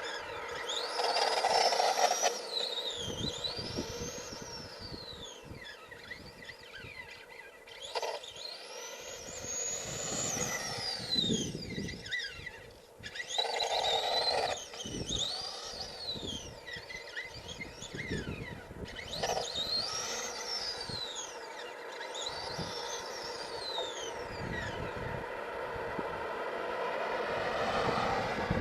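Electric motor of an HPI Wheelie King RC monster truck (Traxxas 12-turn brushed motor on 2S) whining as the truck is driven, the pitch rising and falling again and again as it speeds up and slows down.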